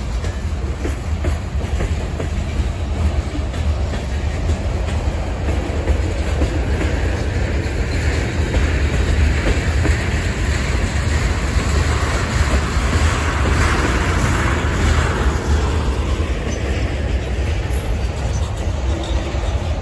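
Freight cars of a long manifest train rolling steadily past: a continuous rumble with the clatter of steel wheels on the rails.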